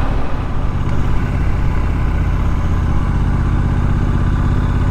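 Triumph Street Scrambler's 900 cc parallel-twin engine running steadily under way, with wind rushing past.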